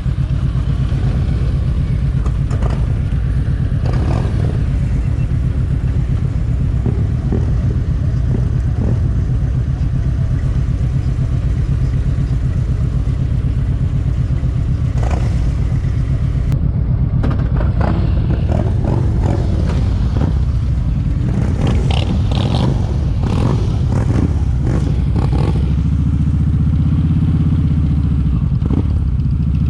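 Kawasaki Vulcan 1700 Vaquero's V-twin engine running steadily with a rapid low pulse, with some light clatter in the middle; the engine note shifts slightly higher near the end.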